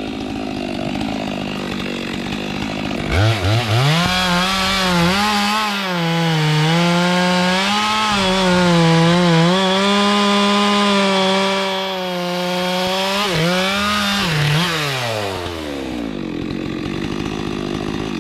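Stihl chainsaw cutting into a large kapok tree. It revs up sharply about three seconds in and holds at high speed, its pitch dipping and recovering as the chain bites into the wood, then drops back toward idle near the end. A steady engine tone runs before the rev-up.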